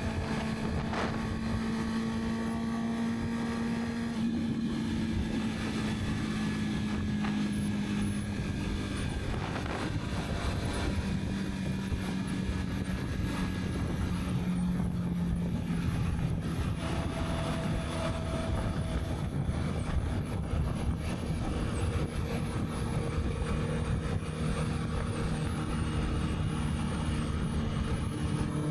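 Honda CB650R inline-four engine running steadily under way, its note sinking slowly over the first half as the revs ease, with wind noise on the mic.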